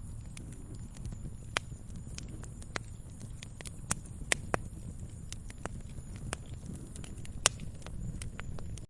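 Wood fire crackling in a fireplace: irregular sharp pops and snaps over a low steady rumble of burning, with a few louder pops scattered through.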